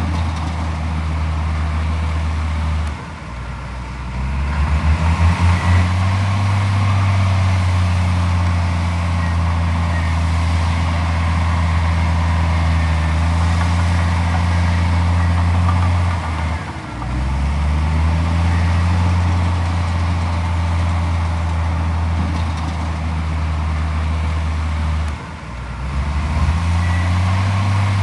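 Komatsu D41P bulldozer's diesel engine running hard, with a steady low hum. Three times it sags briefly in pitch and level, then climbs back up.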